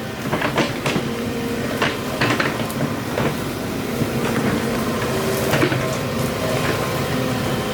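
An engine running steadily, with scattered knocks and clanks over it.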